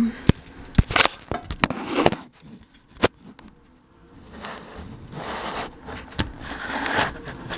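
Parts of a ceiling fan being handled: a run of sharp clicks and knocks in the first three seconds, then a few seconds of rustling and scraping.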